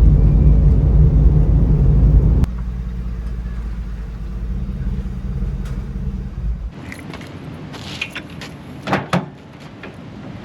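Pickup truck engine just started, running at a fast idle that drops to a lower idle about two and a half seconds in. The engine sound cuts off near seven seconds, followed by a few light clicks.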